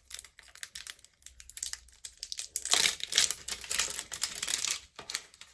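Plastic packaging crinkling and clicking as it is handled close to the microphone. The rustling thickens into a louder stretch about halfway through that lasts around two seconds.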